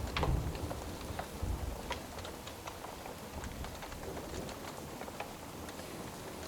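Fire crackling with scattered sharp pops over steady rain, with a low rumble of distant thunder in the first second or so that then fades.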